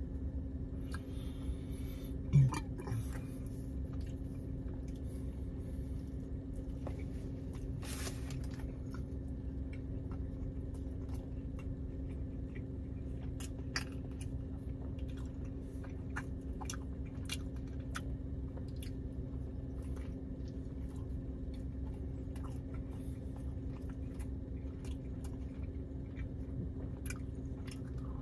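Close-up chewing and biting of a McDonald's breakfast burrito, with many small sharp mouth clicks. Underneath is a steady low hum inside a car cabin, and a brief low thump about two seconds in.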